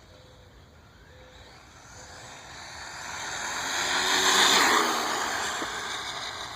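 A 1/10 scale electric RC car speeding past: a motor whine and tyre hiss that build to a peak about four and a half seconds in, then fade away.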